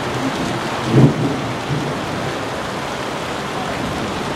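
Heavy rain pouring steadily in a downpour, with a brief low thump about a second in.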